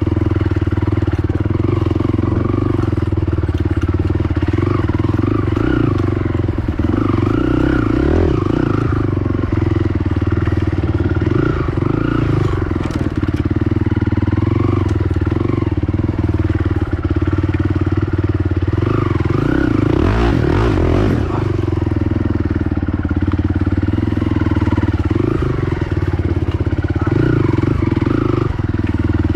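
Honda TRX450R quad's single-cylinder four-stroke engine running steadily under way, with a couple of brief rises and falls in revs, about a quarter of the way in and again past the middle.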